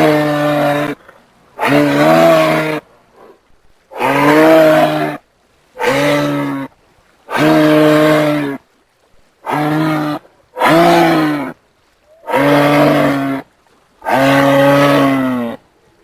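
Giraffe lowing calls: a series of about nine deep, moo-like calls, each about a second long, with short silent gaps between them.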